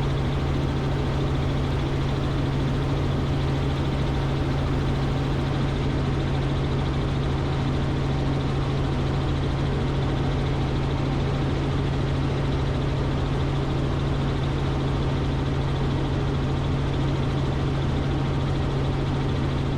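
Robinson R44 Raven II helicopter in cruise flight, heard from inside the cockpit: a steady, unchanging drone of engine and rotors with a strong low hum.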